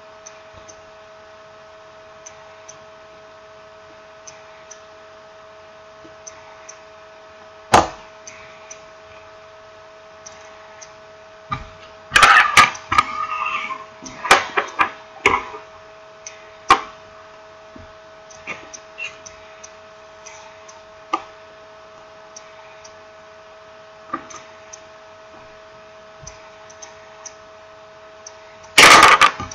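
Scattered clicks, taps and knocks of small parts and tools being handled on a work surface, busiest in the middle and loudest just before the end. Under them runs a steady hum with faint regular ticking.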